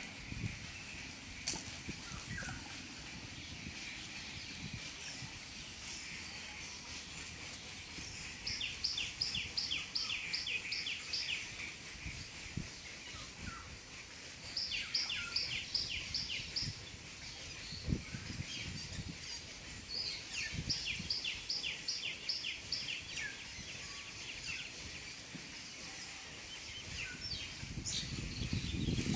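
A bird calling in three runs of rapid, evenly spaced high chirps, about four a second, each run lasting two to three seconds. Under it, low sloshing of water as a man wades waist-deep through the pond.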